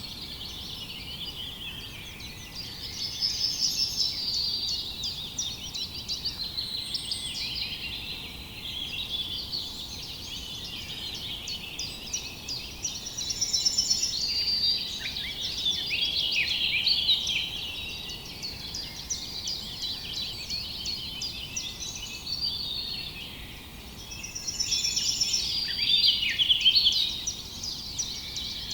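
A chorus of many small birds chirping at once, a dense, unbroken twittering that swells louder three times and then eases off.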